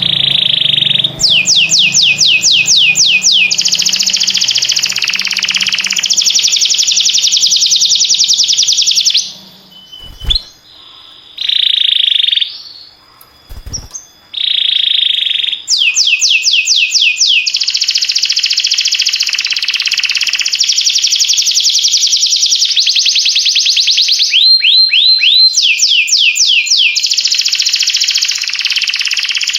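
Domestic canary singing: fast trills of rapidly repeated high notes, alternating with phrases of slower upward-sweeping notes. The song breaks off for a few seconds around the middle with short bursts, then resumes.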